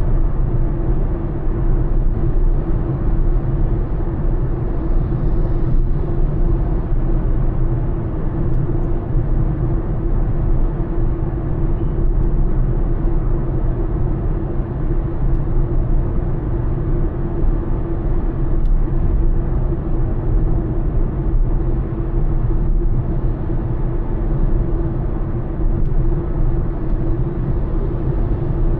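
Honda Elevate cruising at highway speed: a steady low rumble of road, tyre and engine noise with a constant hum running through it.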